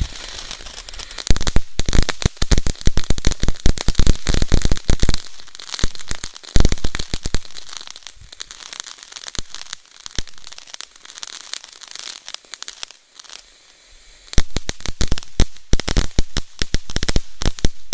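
Fireworks going off close by in rapid strings of sharp cracks and pops, dense for a few seconds, thinning out, dropping to a brief lull about two-thirds of the way in, then bursting into rapid cracking again near the end.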